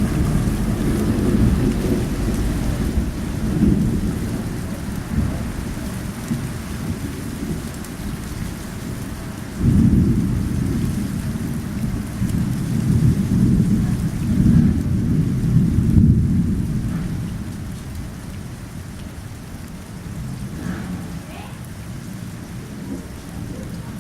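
Thunderstorm: steady heavy rain with rolling thunder. One long peal of thunder is already rumbling at the start, and a second breaks suddenly about ten seconds in, rolls on for several seconds and dies away, leaving the rain.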